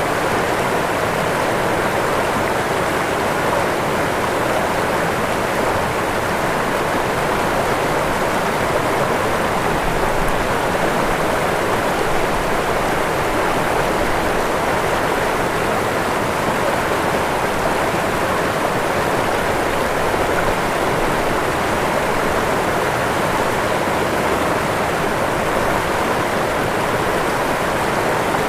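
Waterfall: water falling and rushing in a steady, unbroken roar that stays even throughout.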